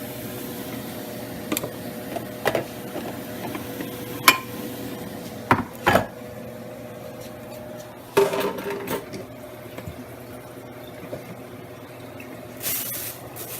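Kitchen utensils and dishes knocking and clinking now and then, with a short clatter about two-thirds through. A steady fan hum runs underneath, and a brief hiss comes near the end.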